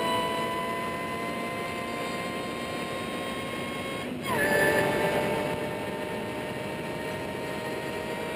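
Ariel Atom's engine heard from the open cockpit, accelerating hard down a straight. Its pitch climbs steadily, breaks off briefly about four seconds in for an upshift, then comes back louder and climbs again.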